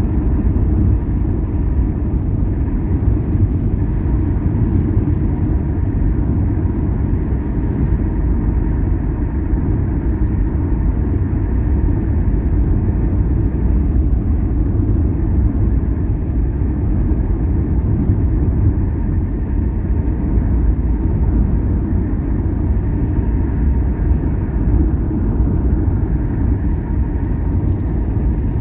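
Steady low rumble of a car driving along a road, engine and tyre noise heard from inside the cabin, with a faint steady hum running through it.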